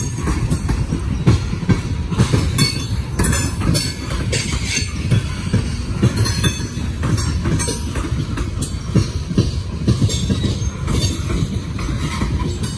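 Freight train of coal gondola cars rolling past close by: a steady low rumble of steel wheels on rail, with repeated clacks, often in pairs, as wheels cross rail joints.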